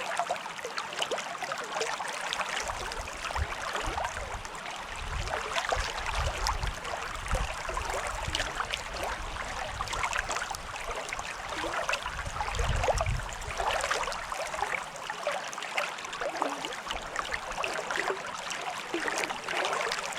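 Small creek's water running and trickling over rocks, a steady rushing hiss dotted with small splashes. Bouts of low rumbling come between about four and eight seconds in, and again around thirteen seconds.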